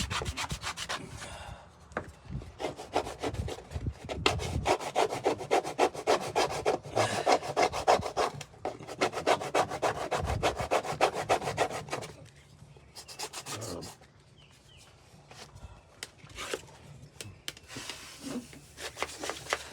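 Putty knife scraping and spreading Bondo body filler over wooden brick mold in quick back-and-forth strokes, then slower, quieter scrapes.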